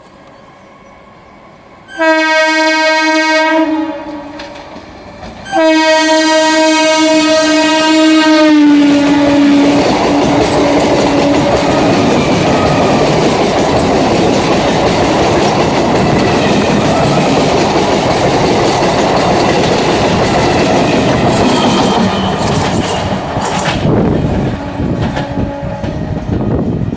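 Electric multiple unit (EMU) local train sounding two long horn blasts, the second dropping in pitch as the train passes. Then a loud, steady rushing noise as the carriages run by, easing off near the end.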